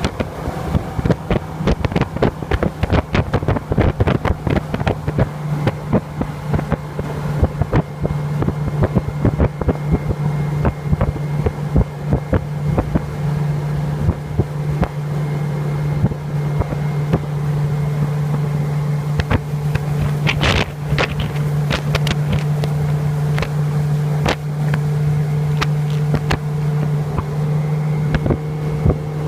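Motorboat engine running steadily at speed, with frequent sharp thumps and buffets as the boat rides over chop and wind hits the microphone. A brief louder hiss about two-thirds of the way through.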